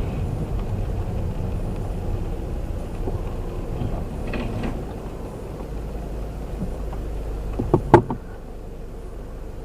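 Steady low rumble of a moving car, heard as dashcam road and engine noise, with a single sharp thump about eight seconds in, after which the rumble is a little quieter.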